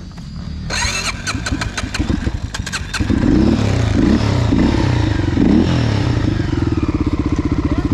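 Clattering, then a petrol dirt bike's engine comes up sharply about three seconds in, is blipped several times, and settles into a steady run.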